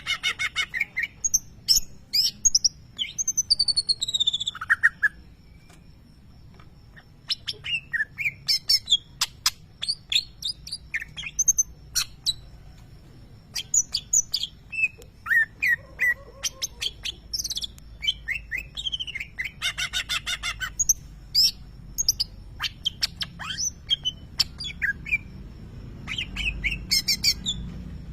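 Greater green leafbird (cucak ijo) singing a varied, loud song of sharp chirps, whistled glides and rapid runs of notes, mixing in mimicked lovebird calls. The song pauses for a couple of seconds about five seconds in, then resumes.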